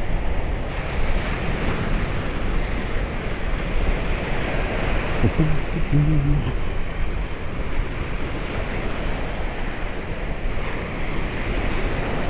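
Sea waves washing onto a small beach in a steady rush, with wind buffeting the microphone.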